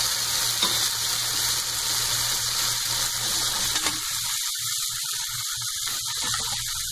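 Softened onion, tomato and cashew sizzling in a hot pot with the heat just turned off, while a spatula stirs and scrapes through it. About four seconds in the sizzle thins out, leaving a lighter hiss and scattered scrapes.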